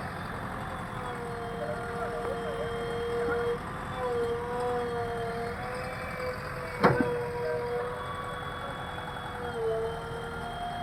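JCB backhoe loader running with a steady whine that dips in pitch now and then, and a single sharp knock about seven seconds in.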